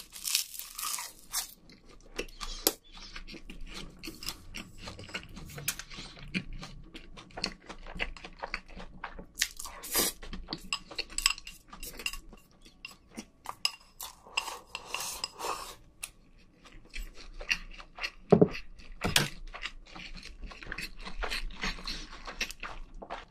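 Close-miked chewing with many small crunches, a mouthful of rice wrapped in roasted laver (gim). Two louder low knocks come a little past two-thirds of the way in.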